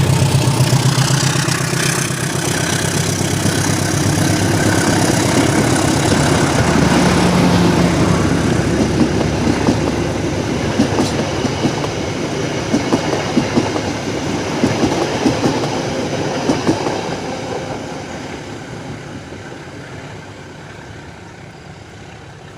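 CC201 diesel-electric locomotive and its train passing: the engine's drone is loudest at first, then the clatter of wheels over rail joints, fading steadily as the train moves away.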